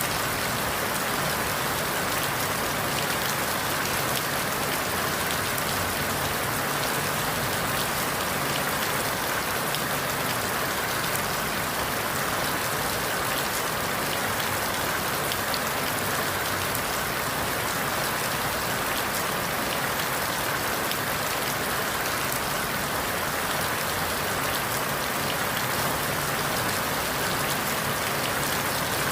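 Steady rain falling through forest leaves, an even hiss dotted with the patter of individual drops.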